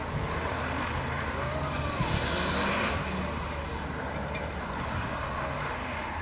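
2003 Mitsubishi Lancer Evolution VIII's turbocharged 4G63 four-cylinder engine running hard up the hill. Its note rises and falls, with a louder rush of noise about two seconds in.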